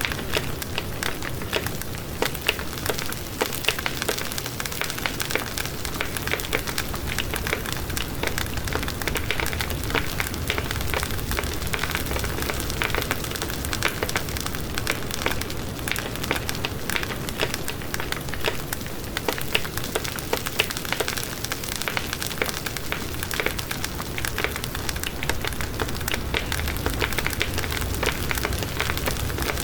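Wood fire burning in a fireplace, crackling steadily with many small sharp pops over a low rumble of flame.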